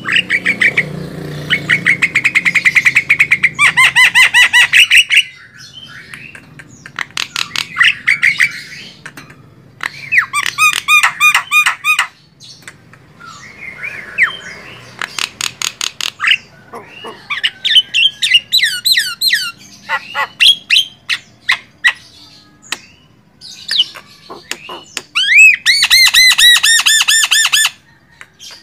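Javan myna (jalak kebo) singing loudly: bursts of fast repeated harsh notes, rattles and gliding whistles, each lasting a few seconds with short pauses between.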